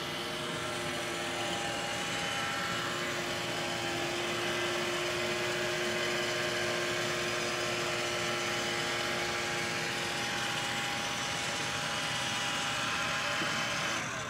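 Roomba robot vacuum running as it drives back to its charging dock: a steady whir of its motors with a few constant tones. The whir stops near the end as it docks.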